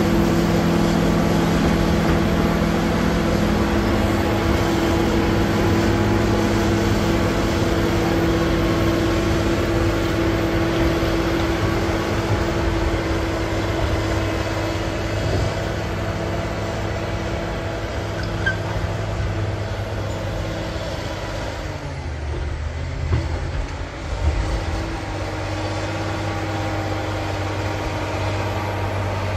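Caterpillar D7G bulldozer's diesel engine running steadily at working revs. About 22 seconds in, the engine note drops briefly and a couple of knocks are heard before it settles back to a steady run.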